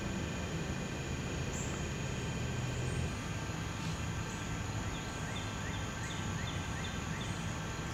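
Steady outdoor background hiss with a low hum. About five seconds in, a songbird sings a quick run of short, repeated high notes for about two seconds.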